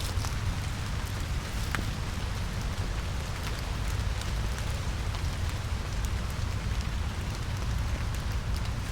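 Steady rain falling in a forest, pattering on leaves and wet ground with a few separate drips ticking through it, over a constant low rumble.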